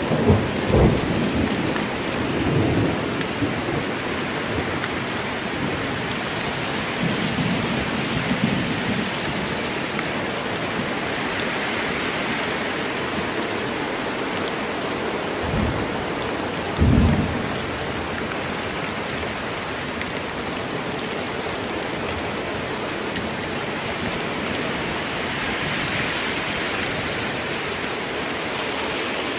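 Steady rain falling in a forest during a rainstorm, an even hiss. Low rumbles of thunder come in the first few seconds and again about seven seconds in, and two short low thumps come about 16 and 17 seconds in.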